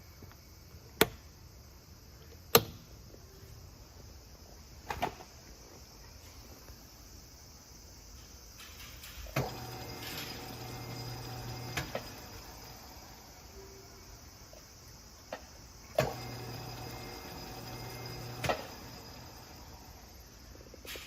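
Seiko Instruments No. 4 tool lathe being test-run: a few sharp clicks, then its motor runs with a steady hum and a high whine for about two and a half seconds and stops, and after a pause runs again for about two and a half seconds. Each run starts and ends with a click.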